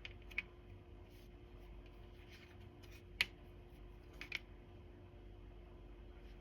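Tarot cards being handled: a few faint, short clicks and rustles, with one sharper tap about three seconds in and a quick pair a second later, over a faint steady hum.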